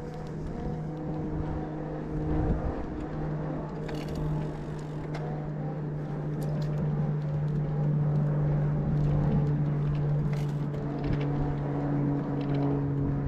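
Bosch mid-drive e-bike motor whining steadily under pedal assist while riding, over a low rumble of wind and tyres; it grows a little louder about halfway through.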